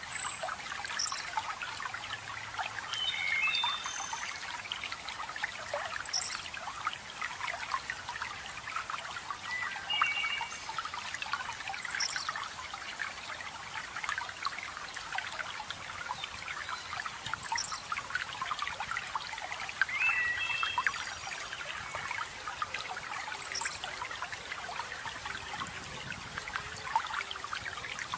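Running water trickling and splashing steadily, with small birds chirping over it. A short high chirp recurs about every five to six seconds, and lower chirps come a few times.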